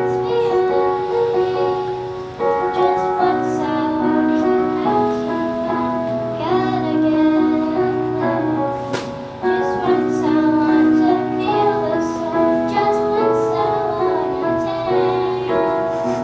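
A song: voices singing over instrumental accompaniment.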